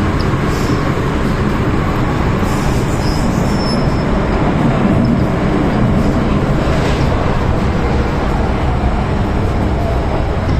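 MTR M-Train electric multiple unit running at speed: a steady, loud rumble of wheels and running gear on the track, with a few faint high squeals of wheels on rail in the first few seconds.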